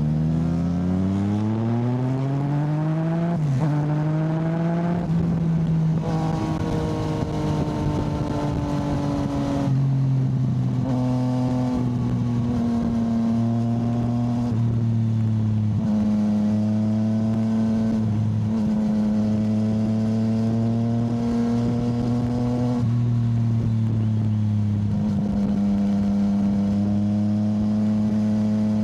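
Yamaha motorcycle engine accelerating in rising sweeps, shifting up twice in the first few seconds. It then cruises at a fairly steady engine speed with small rises and dips, over wind and road noise.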